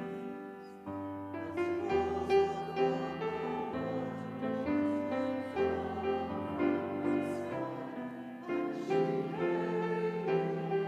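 Slow keyboard music, chords held and changing every second or so.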